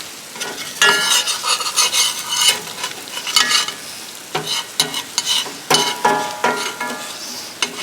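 Eggs frying in a hot pan with a steady sizzle, and a utensil repeatedly scraping and tapping against the pan, giving short sharp clicks and brief ringing squeaks.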